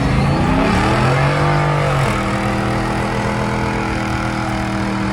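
A vehicle engine revving: its pitch rises, holds high for about a second, then drops sharply about two seconds in and runs on steadily at a lower pitch.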